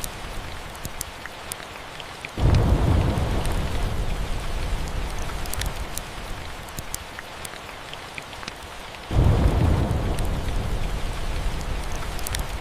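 Steady rainfall with scattered sharp ticks. Thunder rumbles twice, at about two seconds in and again about nine seconds in; each rumble starts suddenly and deep, then fades slowly into the rain.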